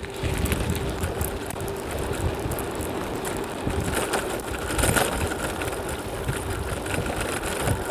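Strong wind buffeting the microphone during a bicycle ride: a steady rush of noise with a gusting low rumble.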